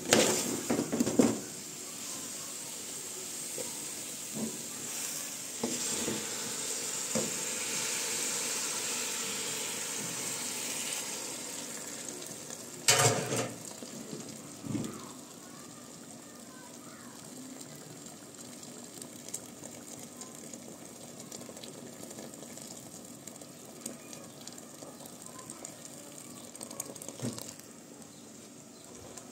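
Chicken pieces frying in sauce in an aluminium pot, sizzling steadily after a few clinks of a metal utensil against the pot. About 13 seconds in there is one sharp metal knock, then water from a kettle pours into the pot and the sound settles to a quieter, steady hiss.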